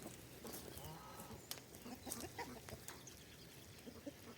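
Chickens clucking faintly, with a few short calls and scattered soft clicks.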